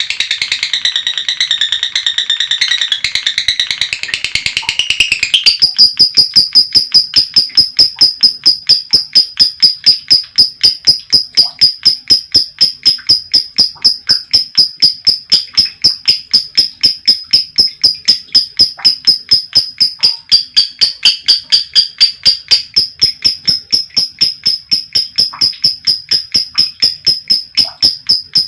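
Female lovebird's long chattering song (ngekek panjang): varied shrill chirps for the first few seconds, then a long unbroken run of sharp, even, high chirps at about four a second.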